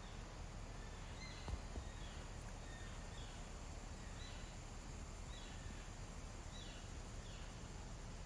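Faint outdoor ambience: a steady hiss with a bird calling repeatedly in short falling chirps, about one a second. A light knock sounds about a second and a half in.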